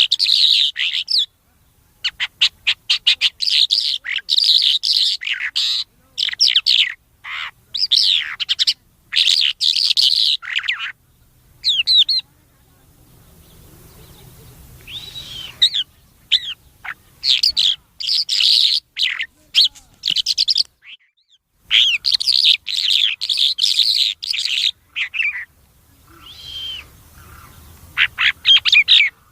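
A thor ghoora songbird singing in long bursts of rapid twittering chirps and trills, broken by short pauses.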